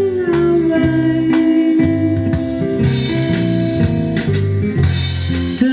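Swing band playing an instrumental passage between sung lines: guitar and bass over drums, with cymbal hiss swelling in the middle.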